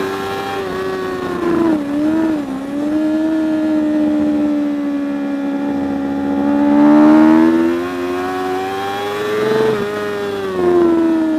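Racing superbike engine at high revs, its pitch dipping and wobbling about two seconds in, climbing slowly for several seconds, then dropping sharply near the end.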